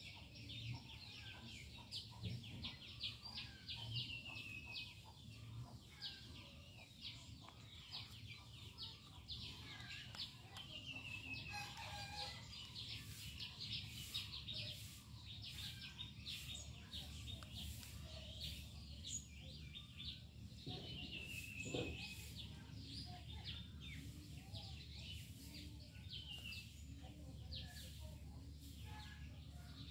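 Birds chirping and calling throughout, with a short descending trill that recurs every several seconds over a steady low hum.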